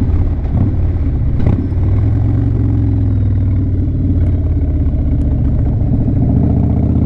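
Harley-Davidson V-twin motorcycle engine running steadily at low road speed, a continuous low rumble. A short clack comes about one and a half seconds in.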